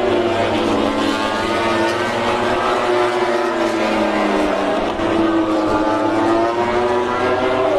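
MotoGP race bike engine running at high revs, its pitch falling and rising as the rider brakes and accelerates through the gears.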